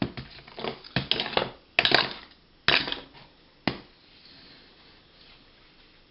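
Crinkling, crunching handling noise of materials being worked on a table, with louder bursts about two and three seconds in and a single sharp click near four seconds, then only faint background.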